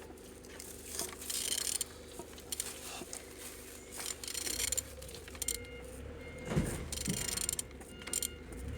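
Removed car engine being turned over by hand with a ratchet wrench: the ratchet clicks in short bursts between strokes, with a couple of dull knocks. The engine turns freely and is not seized.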